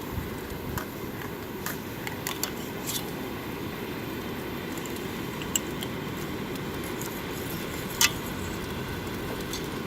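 Campfire burning: a steady low rush with a few sharp crackles, the loudest about eight seconds in.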